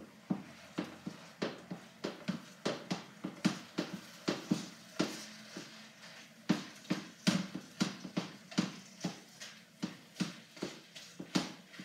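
Spatula knocking and scraping against a wok as cooked rice is stir-fried and broken up, in irregular strikes about two or three a second.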